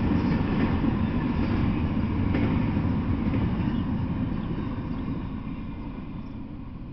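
Double-stack intermodal container train's wagons passing on the rails, a steady rumble of wheels on track that fades away as the last cars go by.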